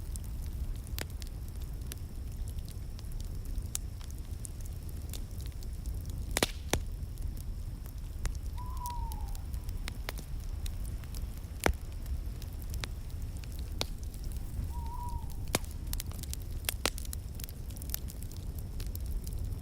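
Wood fire in a fireplace crackling, with irregular sharp pops and snaps over a steady low rumble of the flames. Two brief, faint falling chirps come about a third and three quarters of the way through.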